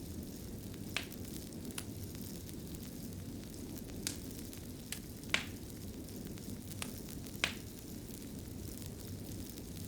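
Fireplace fire crackling: a steady low rumble of the flames with sharp, irregular pops every second or two.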